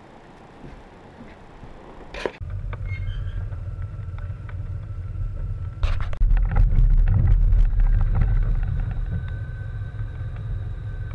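Ford Bronco's engine idling, a steady low rumble that comes in after a sharp click about two seconds in and gets louder after another knock about six seconds in. Scattered clicks and knocks from the roof-mounted GoPro being handled sound over it.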